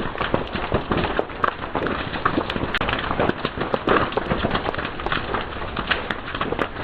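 Fire crackling and popping: dense, irregular snaps over a steady hiss.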